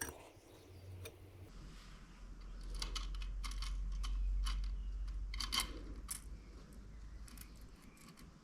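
Light metallic clicks and clinks of clutch discs being handled and fitted into the clutch basket, with a low hum underneath.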